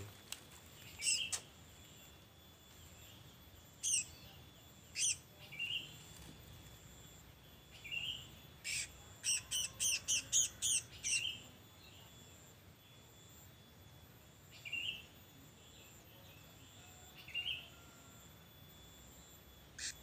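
Small bird chirping: short, high, down-sweeping chirps that come singly every few seconds, with a quick run of about eight in a row near the middle.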